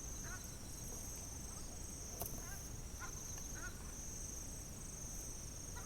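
Steady high-pitched insect drone, with a few short, faint bird chirps scattered through it and a single click about two seconds in.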